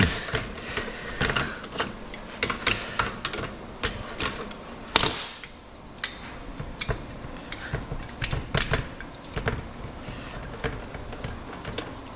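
Irregular clicks, taps and knocks of metal parts and hand tools being worked, several a second, with a few louder knocks, such as one about five seconds in.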